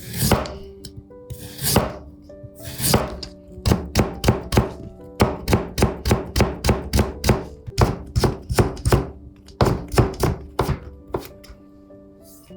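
Kitchen knife chopping vegetables on a cutting board. It starts with a few slower, separate strokes, then settles into a run of quick, even chops about three a second, which thins out near the end.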